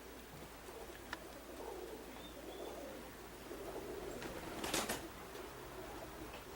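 Pigeons cooing softly and continuously, with a short rush of noise just under five seconds in.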